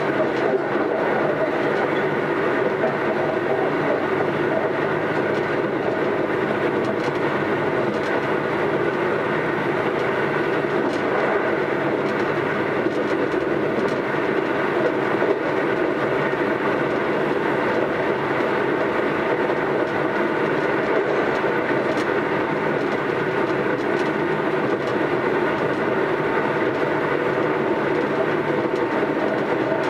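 Keisei AE100 series electric train running at a steady pace, heard from inside passenger car AE132: an even rumble of wheels on rail with steady tones that neither rise nor fall. A weak air-conditioning fan runs underneath.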